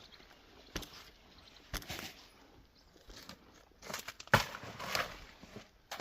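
A few scattered sharp knocks, the loudest about four seconds in, with bouts of rustling between them.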